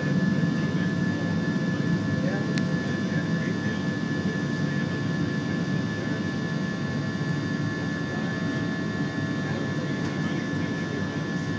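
Jet engine noise and airflow inside an airliner cabin during the climb after takeoff: a steady, even rumble with a thin steady whine above it. A single sharp click about two and a half seconds in.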